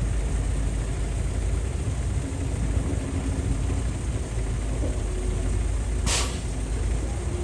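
Heavy diesel engines of an excavator and dump truck running steadily with a low rumble, with a short hiss about six seconds in.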